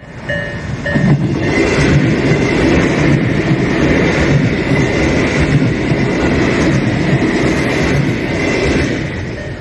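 A Japanese level-crossing alarm ringing in steady tones, then an electric commuter train with stainless-steel cars passing close by. Its wheels on the rails make a loud running noise from about a second in, fading near the end.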